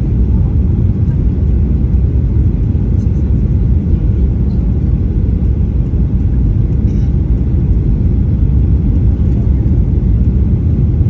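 Steady low rumble of an airliner's cabin noise: engines and airflow, even and unchanging, with a few faint small clicks.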